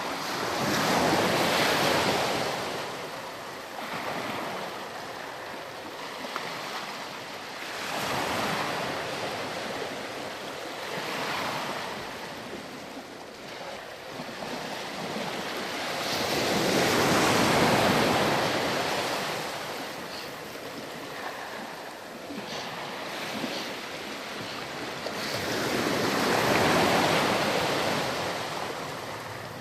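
Ocean waves breaking and washing up a sandy beach, each wave swelling to a rush and then drawing back. Three big surges come several seconds apart, with smaller waves between them.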